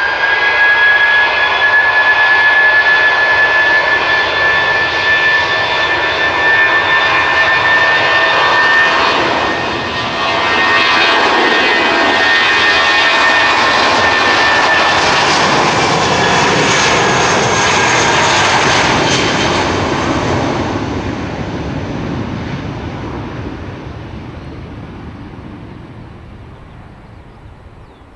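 Airbus A320-232's twin IAE V2500 turbofan engines at takeoff thrust, the jet departing: a loud rushing roar with a steady high whine, which fades away steadily over the last eight seconds or so.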